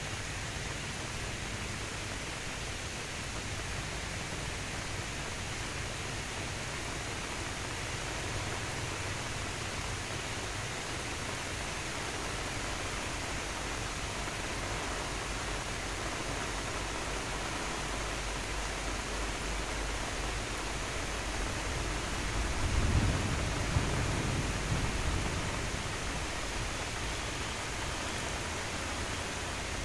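Light rain falling steadily, a soft even hiss. A low rumble swells briefly about three-quarters of the way through.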